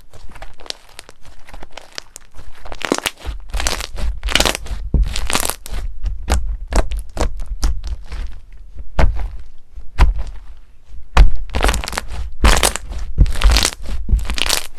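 Slime being pressed and squeezed by hand close to the microphone: a dense run of crackles and sharp clicks, with low handling thumps underneath, busier and louder from about three seconds in.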